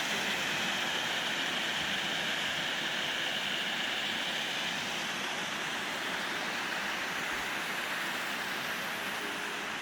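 Steady rushing water, like a mountain stream, an even hiss without breaks.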